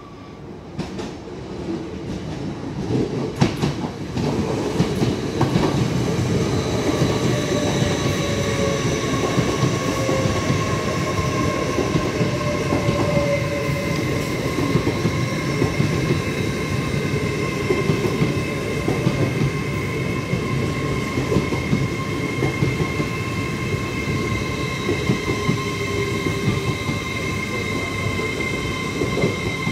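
LNER Azuma train running slowly along the platform: a rumble of wheels on rail that builds over the first few seconds and then holds steady, with a steady high whine over it.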